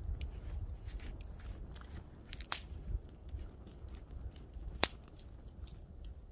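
Campfire crackling: scattered sharp snaps and pops of burning wood, the loudest pop just before five seconds in, over a low rumble.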